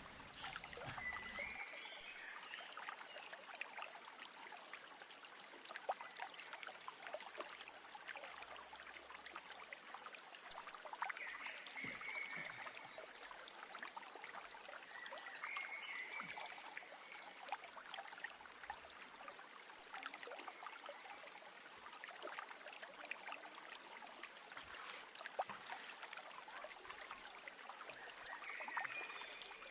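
A stream flowing and trickling steadily, with a bird giving a few short calls, about four times.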